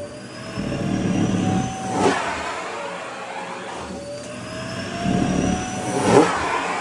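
Vacuum cleaner running while a dress is sucked into its nozzle: the motor whine slowly rises as the fabric blocks the airflow, then falls back with a rush of air and fabric noise when it shifts, twice.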